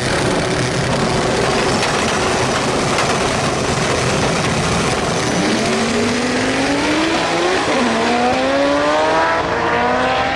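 Manual-transmission drag race car at full throttle down the strip, a dense roar at first, then the engine note climbing and dropping back sharply twice as it is shifted up through the gears.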